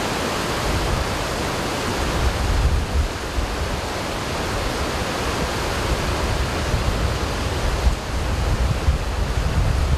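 Steady, loud rushing of water, a dense hiss, with an uneven low rumble that swells a couple of seconds in and again near the end.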